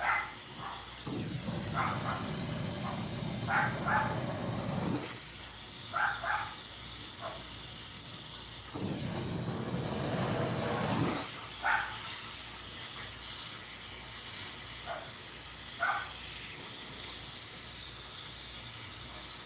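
Torch flame hissing steadily while melting silver in a small dish, with two stretches of a louder low rushing, about a second in and again around nine seconds in, and a few brief short sounds.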